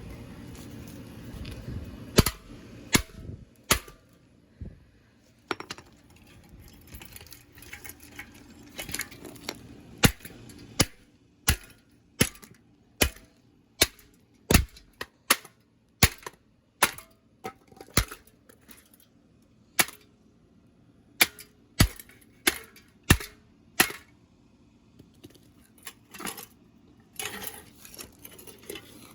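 A long series of sharp clicks and knocks, irregularly spaced, a few at first and then coming about once a second from about ten seconds in.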